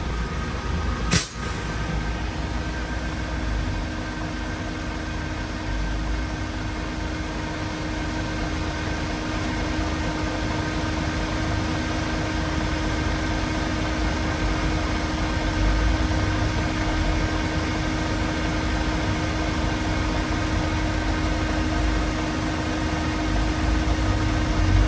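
An engine running steadily at a constant speed, with one sharp click about a second in.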